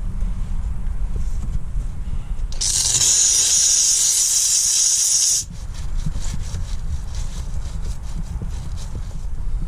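A Dupray Neat canister steam cleaner's nozzle releases a loud, high jet of steam for about three seconds, starting a couple of seconds in and cutting off suddenly, over a steady low rumble.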